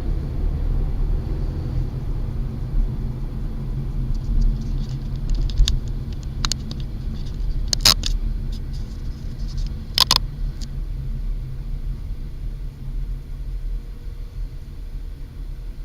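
Steady low rumble of a car driving, picked up by its dashcam, with a scatter of sharp clicks and knocks in the middle, the loudest three a second or two apart.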